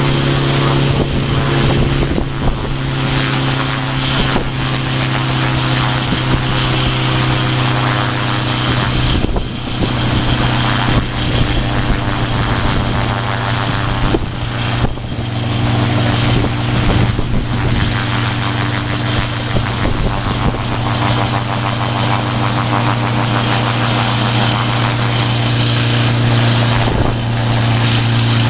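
Helicopter engine and rotor running with a steady drone that holds one pitch, plus scattered irregular clicks and knocks.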